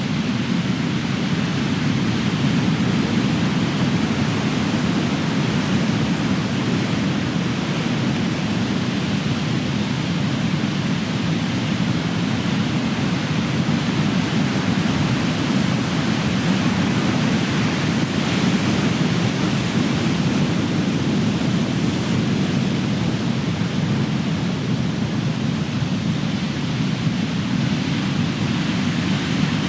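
Ocean surf: large waves breaking and washing in as a continuous, steady rumbling roar with no distinct single crash.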